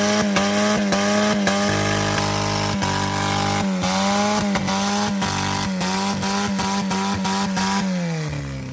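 Small gasoline engine revved hard and held at high revs, with brief dips and stumbles in pitch, then falling back toward idle near the end.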